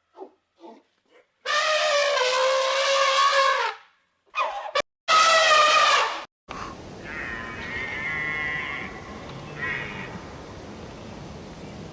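An animal calling: a few short calls, then two long, drawn-out calls of about two seconds each with a clear, fairly high pitch. About halfway through, the sound changes to steady outdoor background noise with a fainter, higher call in it.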